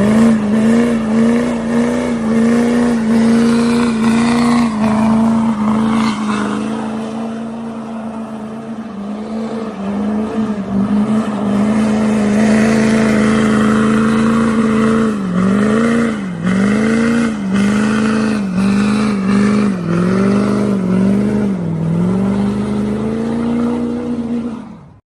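A car engine held at high, steady revs. Later it dips and comes back up about once a second as the throttle is worked, then it cuts off abruptly near the end.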